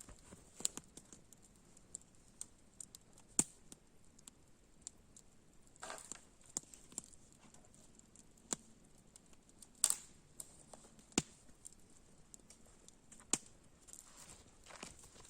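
Scattered sharp clicks and snaps at irregular intervals, with a couple of brief soft shuffling sounds.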